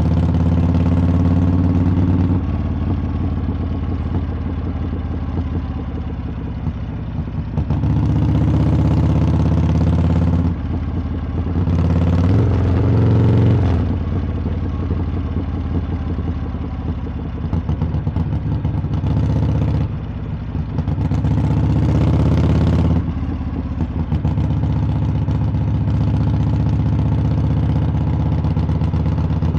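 Harley-Davidson V-twin engine and exhaust running under way, a steady low rumble. Four times the throttle opens and the exhaust note swells louder for one to three seconds, once with a rising pitch, before settling back.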